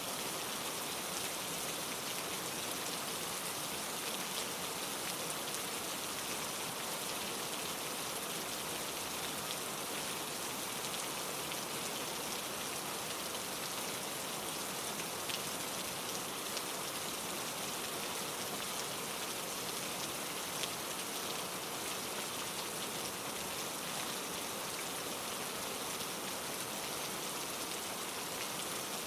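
Steady rain falling on leaves, a continuous hiss of many small drop patters with no changes.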